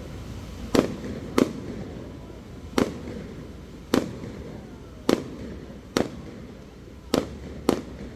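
Aerial fireworks shells bursting: eight sharp bangs spaced roughly a second apart, each trailing off in echo over a low rumble.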